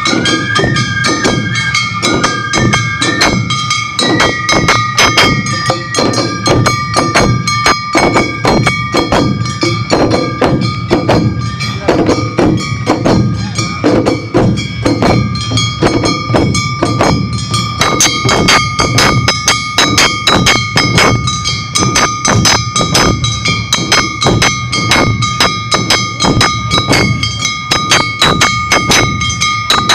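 Awa Odori festival music (narimono): drums and a ringing metal gong beating a fast, steady rhythm, with a flute melody near the start.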